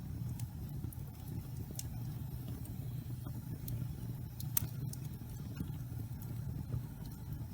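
Wood fire of damp pine logs burning in a fireplace, with a steady low rumble of flames and scattered sharp crackles and pops. The loudest pop comes about halfway through.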